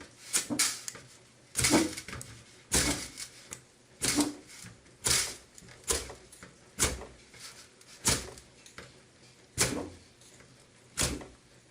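Ferro rod being struck again and again: about a dozen short, sharp scrapes, roughly one a second. The sparks are failing to light the damp fire starter.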